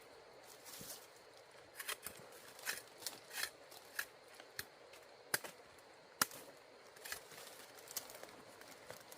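Bamboo being struck with a hand tool: a run of about a dozen short, sharp knocks at uneven intervals, the loudest two a little past the middle.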